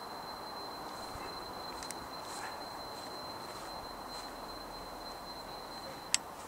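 A steady, distant droning rumble outdoors: the unexplained 'sky noise' that the recorder insists is not a train. A thin, faint high whine runs alongside it and stops at a sharp click near the end.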